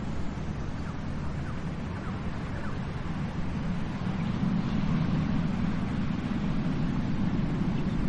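Ocean surf on a beach: a steady, deep rush of breaking and washing waves that swells a little about halfway through.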